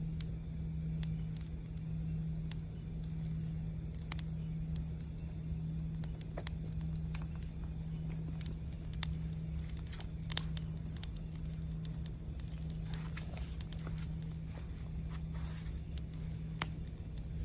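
Campfire crackling, with irregular sharp pops, the loudest about ten seconds in, over a steady low hum and rumble.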